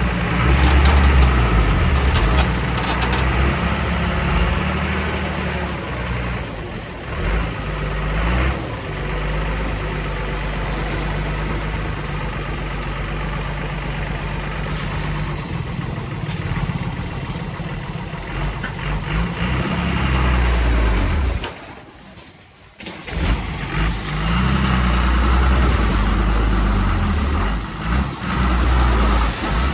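Diesel engine of heavy earthmoving machinery running, its note shifting up and down with load several times. It drops out briefly about two-thirds of the way through, then comes back.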